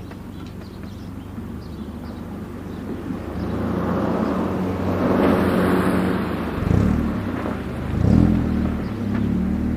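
Honda Avancier engine running through a custom straight-through exhaust with two resonators and two home-made straight-through mufflers. It idles, swells in a slow rev that peaks about halfway through and settles, then gives two short throttle blips.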